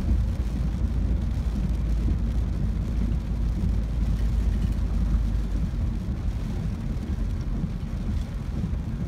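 Ford Focus driving through pouring rain on flooded roads, heard from inside the cabin: a steady low rumble of tyres, water spray and engine with a wash of rain on the car.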